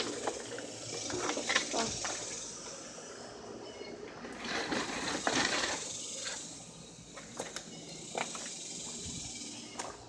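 Gusty wind blowing in swells, with a few scattered clicks and rustles.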